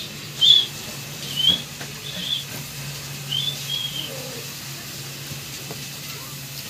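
A person biting and chewing boiled squid close to the microphone, with about five short, high squeaks over the first four seconds, the loudest about half a second in. A steady low hum sits underneath.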